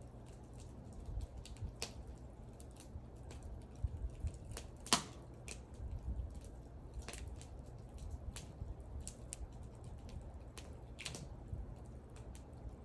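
Wood fire crackling: irregular sharp pops and snaps from the burning wood over a low steady rumble, with one louder pop about five seconds in.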